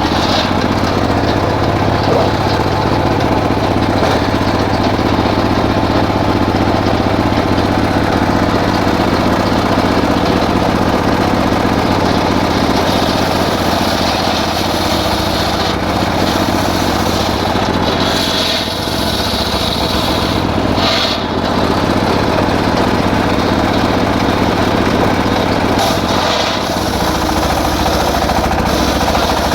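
Engine-driven circular saw running steadily, its engine note holding level, with the loudness dipping briefly about three times in the second half.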